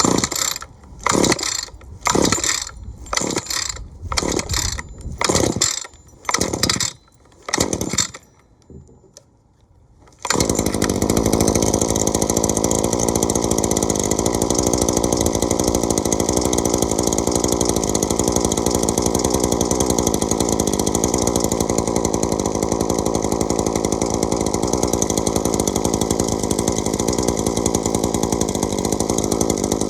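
Cold start of a Shindaiwa two-stroke string trimmer: about ten quick pulls on the recoil starter, each cranking the engine over, then a short pause. About ten seconds in the engine catches and runs steadily.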